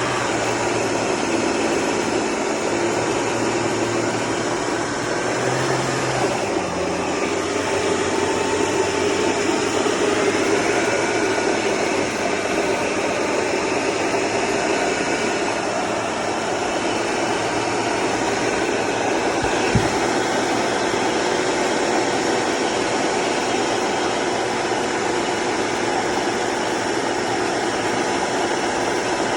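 BMW 535i xDrive's ATC 35L transfer case making a steady grinding drone, the sign of a worn input shaft bearing. A single sharp click sounds about two-thirds of the way through.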